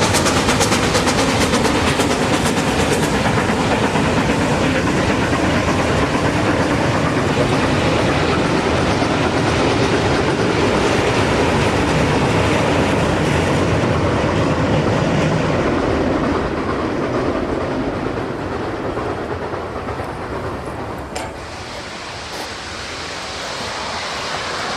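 Mixed train of freight cars and a coach behind 2-8-0 steam locomotive Duluth & Northeastern No. 28 rolling past on the rails, loud at first and dying away over the last several seconds.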